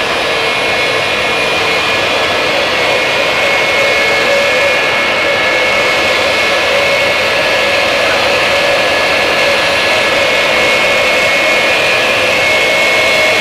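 Jet truck's turbojet engine running steadily: a continuous loud rush with a high, steady whine.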